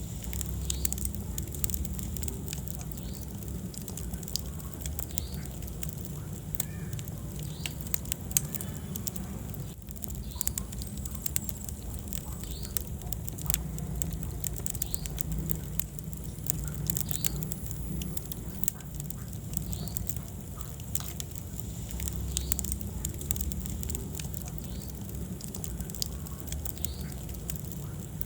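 Wood fire crackling in a fireplace: frequent sharp pops and snaps over a steady low rush of burning flames, with one louder pop about eight seconds in.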